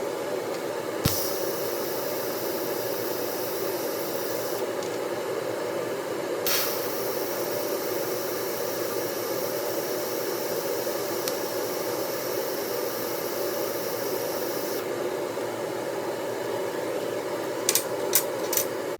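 Welding on a broken exhaust bracket: a steady hum and hiss, with a brighter hiss in two long stretches as the weld runs, and a few sharp clicks near the end.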